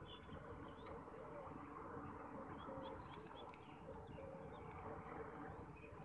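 Faint, quick bird chirps scattered throughout, over a steady low background rumble.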